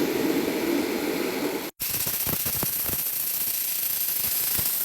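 A steady hiss that breaks off briefly about two seconds in and resumes, with a few faint clicks after the break.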